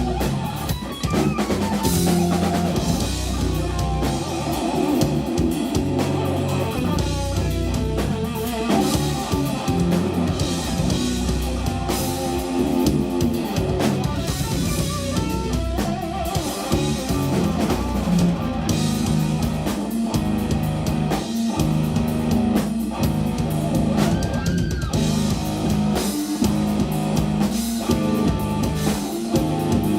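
Live instrumental jazz-rock fusion played by a trio of electric guitar, bass guitar and drum kit, with continuous guitar lines over bass and drums.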